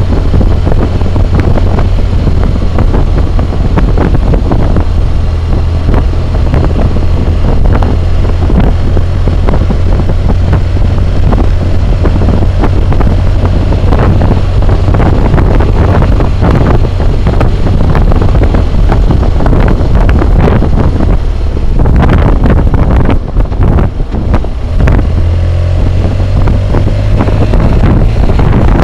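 Wind roar buffeting the microphone of a helmet-mounted camera on a moving BMW motorcycle, with the bike's engine running steadily underneath. The roar briefly drops about three quarters of the way through.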